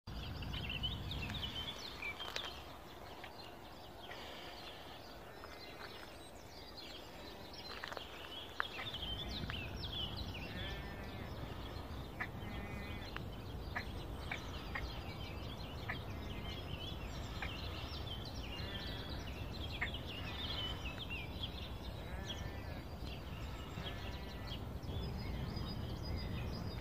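Many birds calling, with short overlapping chirps and calls throughout, over a low steady outdoor rumble that fades for a few seconds near the start.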